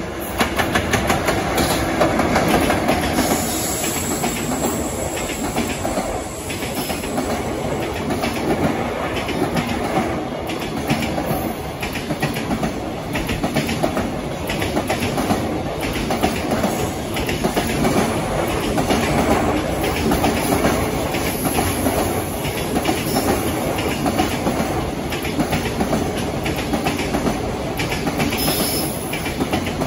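Freight train rolling past, its wagon wheels clattering steadily over rail joints. It grows louder just at the start.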